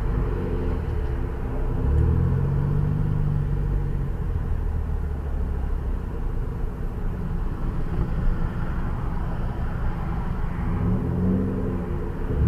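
A car engine running under steady road noise, its engine note rising and falling twice.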